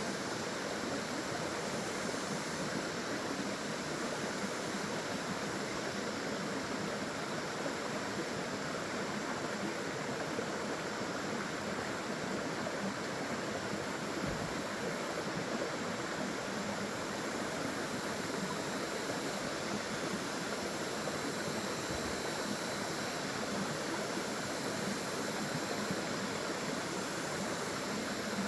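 Waterfall: a steady, even rush of flowing water that does not change.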